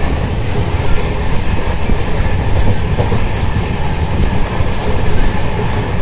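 Khajuraho Express passenger train running at speed: a loud, steady rumble of the coaches with the wheels clattering irregularly over the rail joints.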